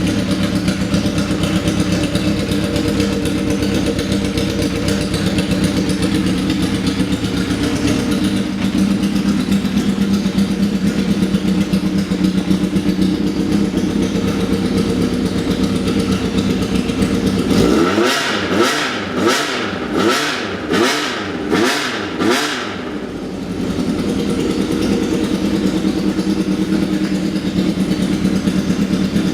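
Honda CBX400F's air-cooled inline-four engine, breathing through an aftermarket exhaust, idling steadily, then blipped about six times in quick succession around eighteen seconds in, each rev rising and falling, before settling back to idle.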